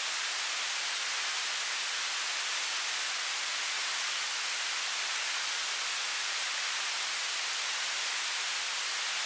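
Television static: steady, unchanging hiss of white noise, bright and weighted toward the high end with almost no low rumble.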